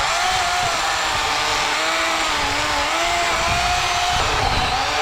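A Worx WG384.9 cordless electric chainsaw with an 18-inch Oregon bar cutting an undercut into a fallen pine trunk. It makes a steady motor whine over the rasp of the chain, and the pitch wavers a little.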